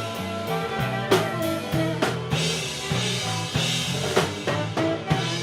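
Live band playing an instrumental passage: drum kit strikes over sustained pitched chords and bass notes.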